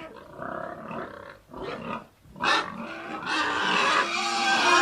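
Domestic pig calling: a few short grunts, then from about three seconds in a loud, long, high call that gets louder toward the end.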